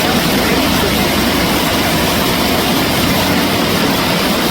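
Floodwater rushing steadily, a loud even noise of flowing water.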